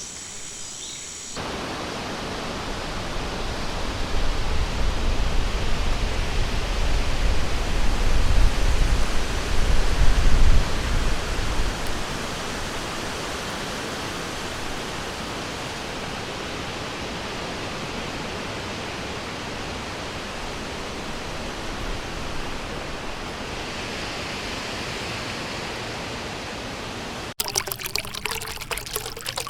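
Steady rushing of a stream or river, with a deep low rumble swelling in from about four seconds in and fading near twelve seconds. Near the end it cuts abruptly to a closer, choppier sound of splashing, trickling water.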